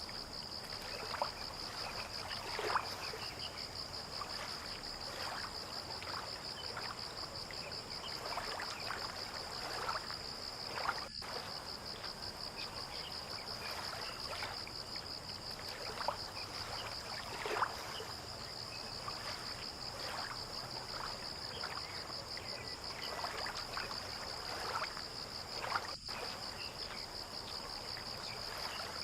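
Insects chirring in a steady, high, finely pulsing drone, with soft water lapping and small splashes scattered throughout.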